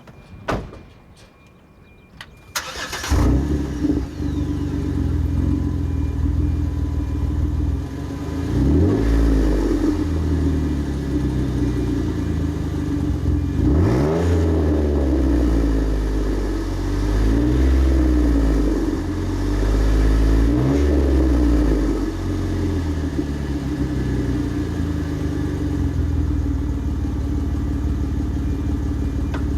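Jeep Wrangler JK's V6 engine, breathing through a Gibson Metal Mulisha aftermarket exhaust, starting up after a couple of sharp clicks and settling into a deep idle. It is blipped through the middle in a series of rises and falls, then returns to a steady deep idle.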